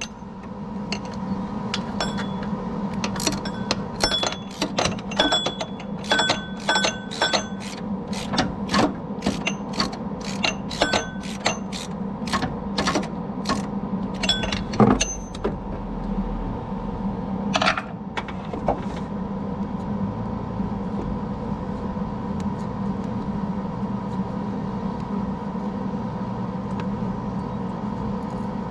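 Metal tools clinking and tapping against metal in irregular, ringing clicks over roughly the first fifteen seconds, with a sharper knock about fifteen seconds in, over a steady hum.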